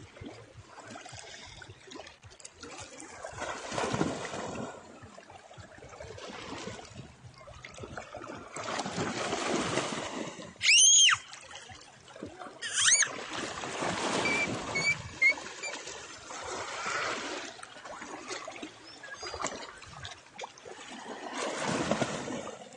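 Small sea waves washing onto a beach, the hiss of water swelling and falling back every few seconds. About halfway through come two loud, high-pitched cries a couple of seconds apart, with a few faint chirps after them.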